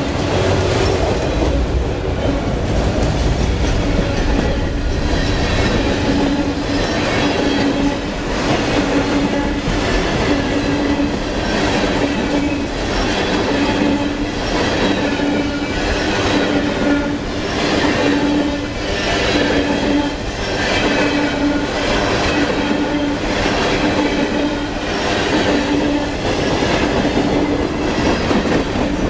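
Freight train cars (autoracks, then tank cars) rolling past close by, the wheels clacking over the rail joints in a steady rhythm of about one clack a second, with a steady tone that fades in and out underneath.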